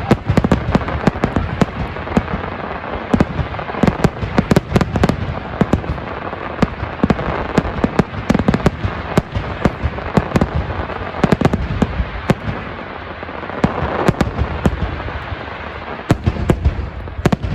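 Fireworks display: a dense, continuous run of sharp cracks and bangs from bursting shells, over a steady crackle.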